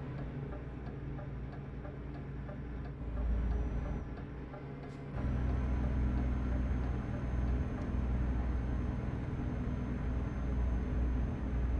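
Truck engine running, heard from inside the cab, with a turn-signal indicator ticking regularly for the first few seconds. About five seconds in, the engine gets louder and stays that way, as under more throttle.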